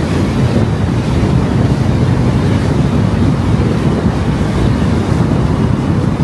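Steady road and wind noise of a car driving, a constant low rumble without breaks.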